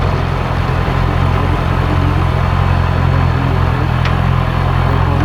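A motorcycle engine running steadily with a low, even hum, with a single light click about four seconds in.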